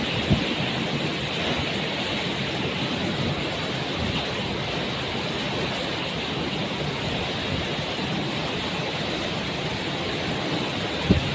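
Steady rushing noise with no clear tone or rhythm.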